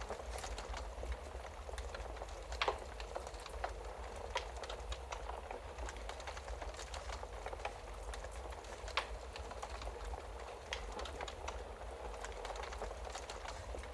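Wood fire in a fireplace crackling steadily with many small snaps, and two louder pops, one about three seconds in and one about nine seconds in, over a low steady rumble.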